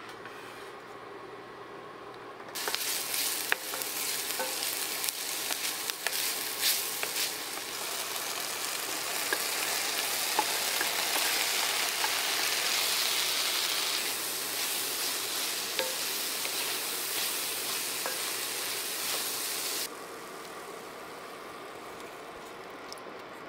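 Food sizzling in hot oil in an enamelled cast-iron braiser on an induction burner, as sliced mushrooms are scraped in and stirred with a wooden spoon, with scattered clicks and scrapes. The sizzle starts about two and a half seconds in and cuts off suddenly near the end, leaving a low steady hum.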